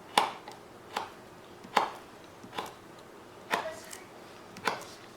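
D2 steel blade of a QSP Parrot folding knife slicing through paracord, six sharp snapping cuts about one a second, each cut going through without effort.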